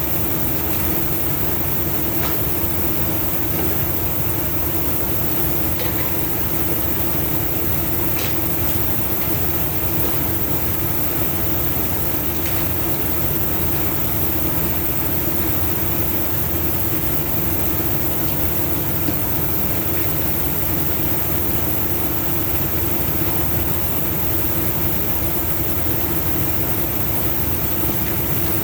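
Heavy diesel truck engine idling steadily, with a few faint clicks.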